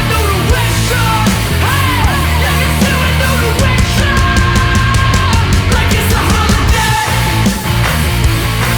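Loud hard rock music with a steady beat. The lead line bends up and down in pitch, then holds long notes in the middle.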